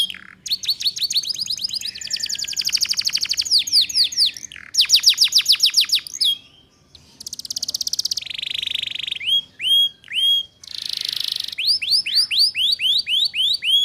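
Domestic canary singing a long run of fast trills: phrases of quickly repeated high notes, some sweeping downward, some clipped and rising, each phrase at its own speed, with a short break about seven seconds in. It is a tutor song for teaching young canaries the 'ngeriwik' trill.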